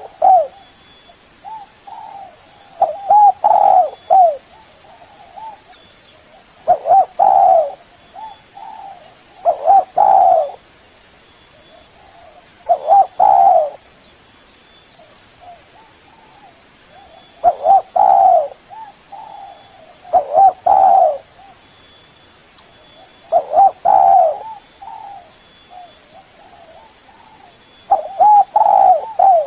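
Spotted dove cooing, a loud phrase of several low coo notes about every three to four seconds. This is a lure call used to draw other doves in and set them calling.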